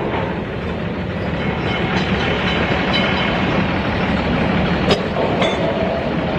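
A rail vehicle running along the track, a steady rumble with faint high squealing tones and a couple of sharp clicks about five seconds in.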